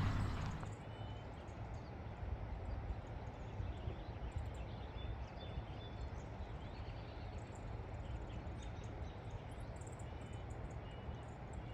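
Faint ambience of a low, steady rumble, with a few short, faint bird chirps now and then.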